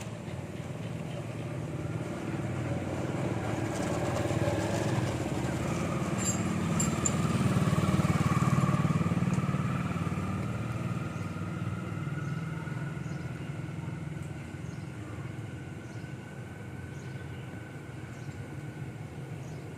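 A road vehicle's engine passing by, growing louder to a peak about eight seconds in and then slowly fading.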